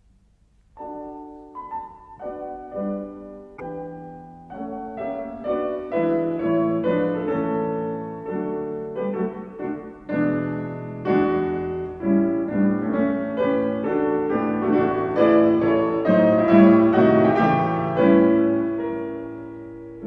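Background music: solo piano playing a slow, flowing melody with chords, entering about a second in and swelling in the middle before easing off near the end.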